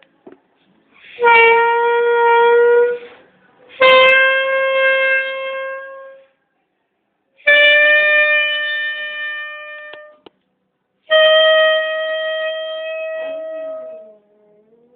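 Saxophone playing four long held notes with short pauses between, each a little higher than the last. Near the end a faint wavering tone bends up and down beneath it: the dog starting to howl along with the sax.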